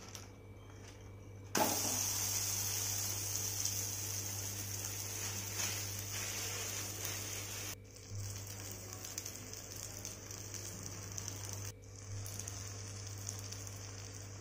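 Ragi adai with drumstick leaves sizzling on a hot tawa. The sizzle starts suddenly about a second and a half in and then runs steadily, with two brief breaks.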